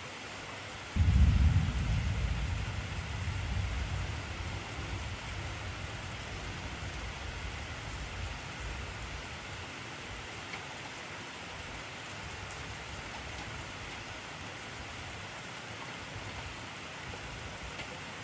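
Heavy rain falling steadily, with a low rumble of thunder that starts suddenly about a second in and fades away over several seconds.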